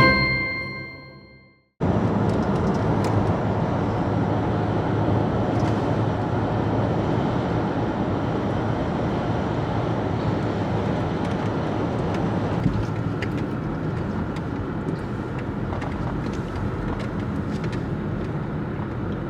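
The last chime of an intro jingle rings out and fades. Then steady vehicle noise sets in, an even rumbling wash with a few faint ticks.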